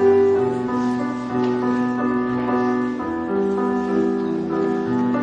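Piano playing a slow introduction of held chords that change about once a second.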